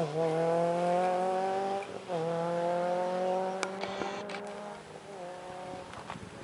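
A racing car's engine accelerating hard, its pitch climbing steadily and dropping sharply at gear changes at the start and again about two seconds in, then fading away after about five seconds.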